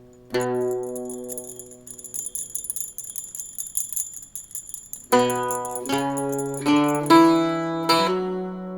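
Plucked-string music on mandolin and octave mandolin: a chord rings out, then small bells jingle for about four seconds. From about five seconds in, single plucked notes climb step by step.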